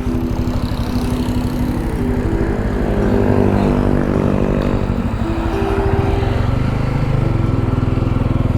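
Motorcycle engine running under way, its pitch falling for a moment around the middle as the bike slows, then steady again.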